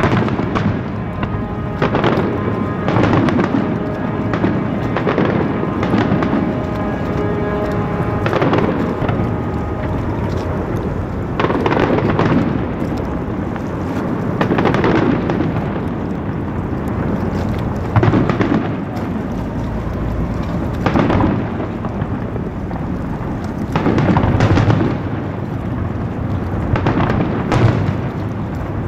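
Aerial fireworks exploding in a steady barrage, with a deep boom every one to three seconds and crackle between. Music plays underneath, its held notes clearest in the first several seconds.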